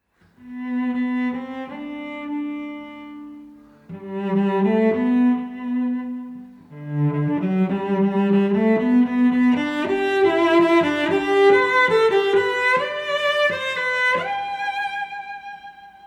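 Background music of bowed strings, cello and violin, playing slow held notes. A single line at first, then several parts together from about seven seconds in, fading near the end.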